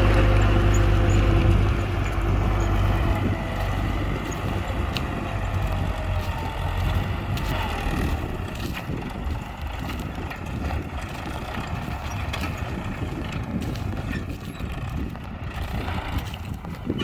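Belarus tractor's diesel engine running, loud and steady for the first two or three seconds, then dropping in level to a rougher, noisier sound with scattered clicks and rattles.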